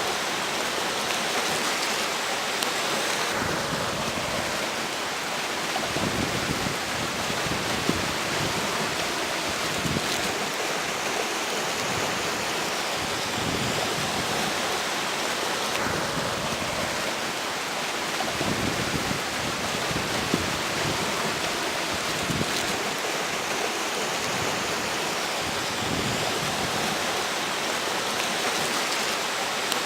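Steady rush of flowing river water mixed with strong gusting wind. Low rumbles of wind buffet the microphone now and then.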